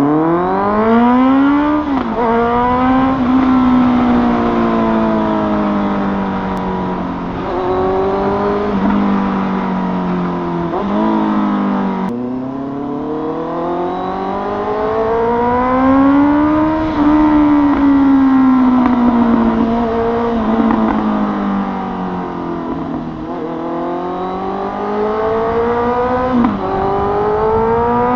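Honda CBR motorcycle with an aftermarket SC Project exhaust, accelerating through the gears. The exhaust note climbs in pitch and drops sharply at each upshift, with stretches of easing off and pulling again.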